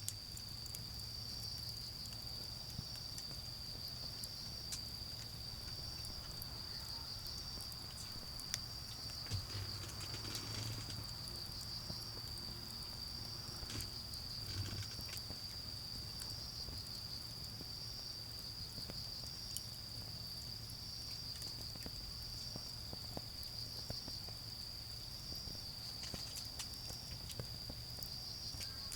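Autumn insects singing: a steady high trill, with a regular chirp about once a second above it. Scattered crackles come from the smouldering charcoal fire, over a low hum of distant traffic.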